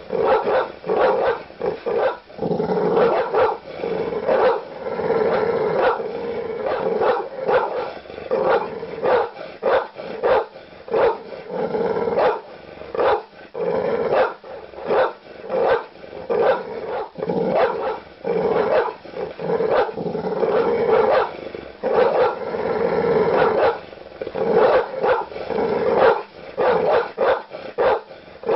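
Large dog barking aggressively, deep barks following one another rapidly, often several a second, with a few stretches where the barks run together almost without a break.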